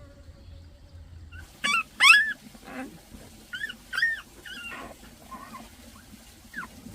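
Short, high whining cries from an animal, about eight in a row beginning a second and a half in, the second one the loudest.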